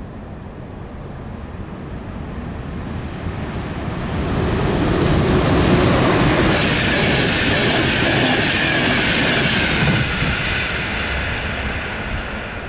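A passenger express hauled by a Siemens Vectron electric locomotive rushing past over a level crossing. The rumble and rail noise swell for a few seconds, stay loud for about five seconds and then fade, with a high whine that sinks slightly in pitch as the train goes by.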